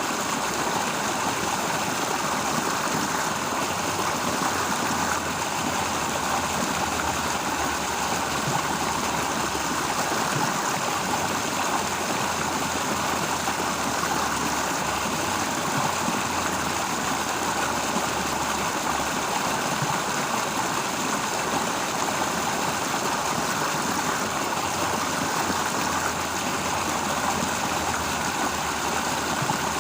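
A stream flowing, a steady, unbroken rush of water.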